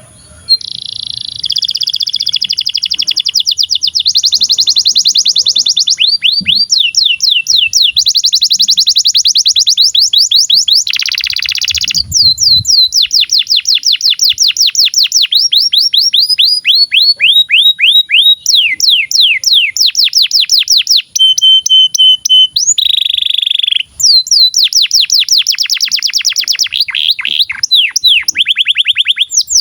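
Male domestic canary singing a long, loud song of fast trills and rolls, each run of rapidly repeated notes giving way to another, with a short steady whistled note about three quarters of the way through.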